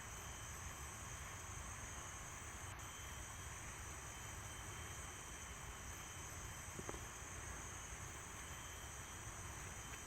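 Faint, steady insect chorus of tropical forest, a continuous high drone, with a single small click about seven seconds in.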